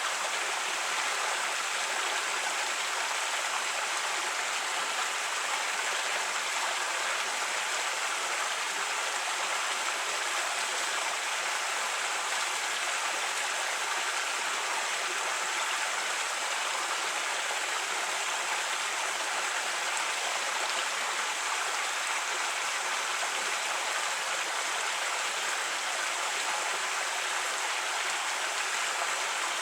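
A creek running steadily over rocks, a constant rush of water with no breaks.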